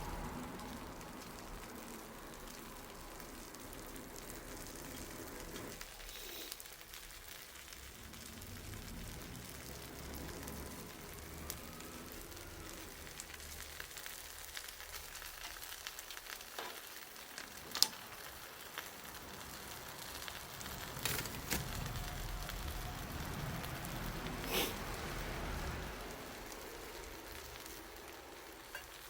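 Wood bonfire burning with a steady hiss and a few sharp crackling pops, the loudest about two-thirds of the way through.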